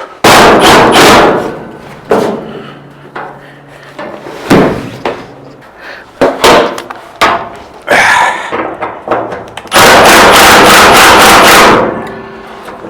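Loud metallic knocks and clanks from tool work on an old truck's hood and front sheet metal. There are several sharp single hits, and a burst of rapid clattering about two seconds long near the end.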